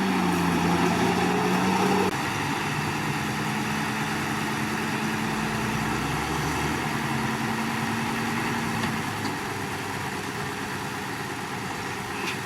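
Heavy diesel engine of earthmoving machinery running steadily, dropping slightly in pitch at the start and getting quieter about two seconds in, then slowly fading toward the end.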